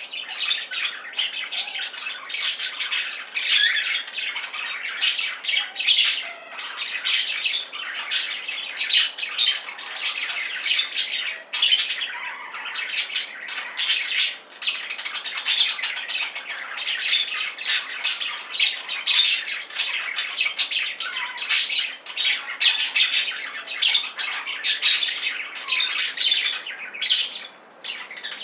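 A pair of budgerigars chattering and squawking without a pause, a dense run of sharp, high calls several to the second.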